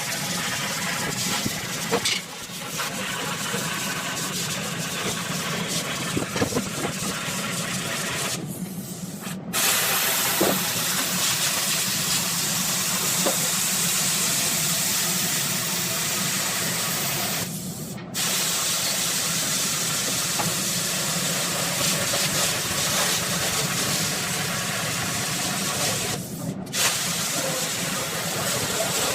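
Steady hissing noise, broken briefly three times where the high part of the sound drops out.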